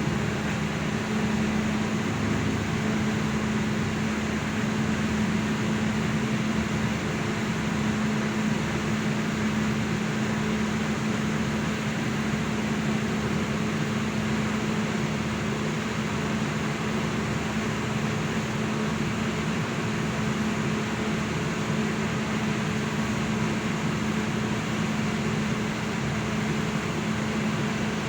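A fishing boat's inboard engine running steadily at constant speed: a low, even drone with a steady hum and a wash of noise, no change in pitch.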